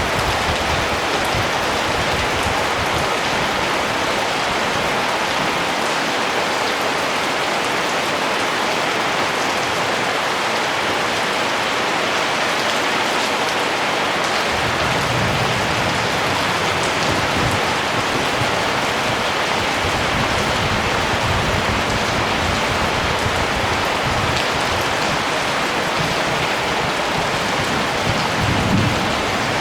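Steady rain falling, a dense even patter, with a few brief low rumbles about halfway through and near the end.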